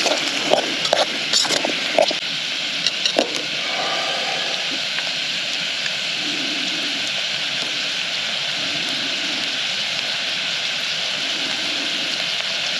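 Onions and sausage sizzling in a pan over a wood fire, a steady frying hiss, with a few clicks of a utensil stirring against the pan in the first few seconds.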